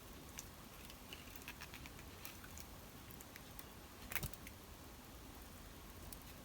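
Faint, scattered light clicks and taps, with a brief louder cluster of clicks about four seconds in.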